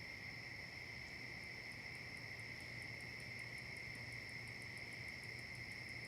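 Autumn insect chorus: crickets trilling steadily and faintly, with a rapid, very high ticking chirp of another insect joining about a second and a half in.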